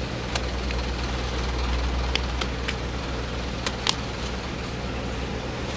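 Low, steady rumble of a motor vehicle's engine running, with a few faint scattered clicks over it.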